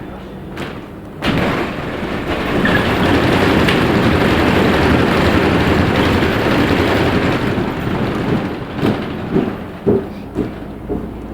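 Loud rumbling noise inside a moving LiAZ 6213.65 articulated bus, starting suddenly about a second in and lasting about seven seconds, followed by a few short knocks and clunks near the end.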